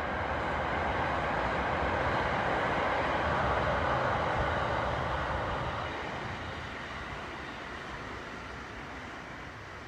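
A train running across a steel railway bridge, a steady rumble that swells to its loudest a few seconds in and then fades away over the second half.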